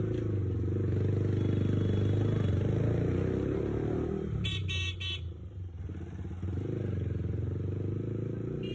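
A motor vehicle engine running steadily, with three short horn toots in quick succession about four and a half seconds in.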